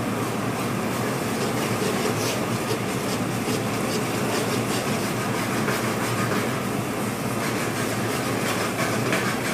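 Semolina frying in oil in an aluminium karahi over a gas burner, a steady sizzling hiss as it is roasted for halwa, with a perforated metal spoon now and then scraping the pan as it stirs.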